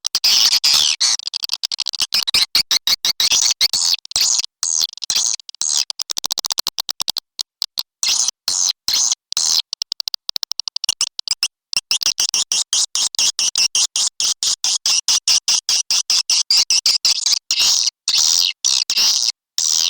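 Swiftlet lure-call recording: rapid, high-pitched twittering chirps of edible-nest swiftlets in fast stuttering runs with short breaks, the kind of call track played to draw swiftlets into a nesting house.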